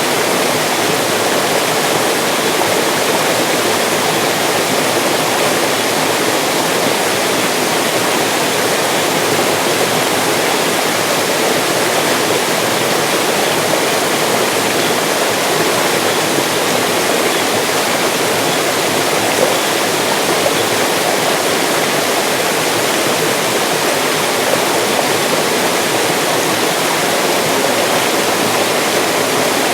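Mountain stream rushing over rocks, a steady loud splashing and gurgling of flowing water that does not change.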